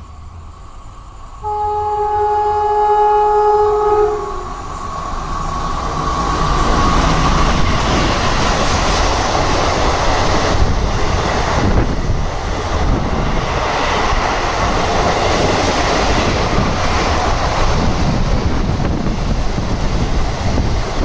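Express train horn sounding one long blast of several pitches about a second and a half in, its pitch dropping as it cuts off. Then the train passes at high speed, wheels clattering over the rails in a steady loud rush.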